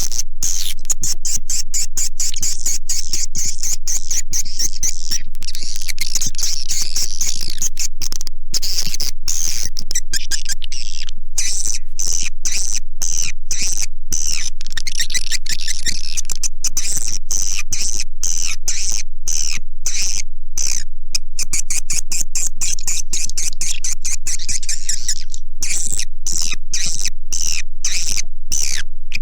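Edible-nest swiftlets twittering: a dense, continuous stream of rapid high-pitched chirps and clicks, played as a recorded swiftlet-house lure call.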